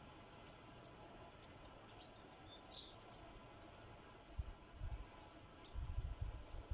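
Sparrows giving short, high chirps here and there at a feeder. From about four seconds in, a cluster of low knocks and bumps, louder than the chirps.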